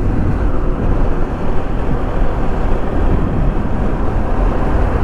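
Steady road and wind noise from a vehicle travelling along a road, dense and heaviest in the low end, with no clear engine note standing out.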